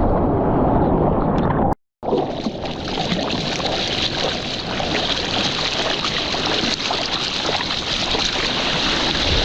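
Ocean water rushing and wind buffeting an action camera's microphone out in the surf, a heavy, muffled rumble at first. It cuts out for an instant about two seconds in and comes back as a brighter, steady hiss.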